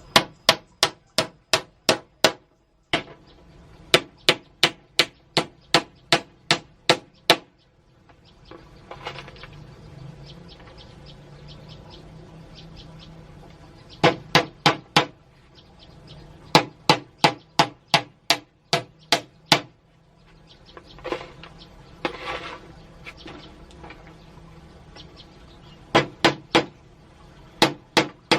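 Runs of sharp hammering strikes, about three to four a second, with pauses of a few seconds between runs.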